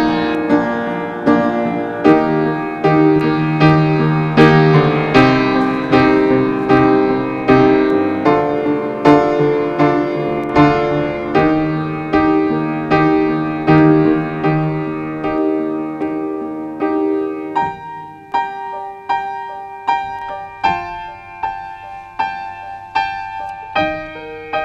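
Piano music: chords and repeated notes struck about twice a second, thinning to a sparser, quieter, higher passage about eighteen seconds in.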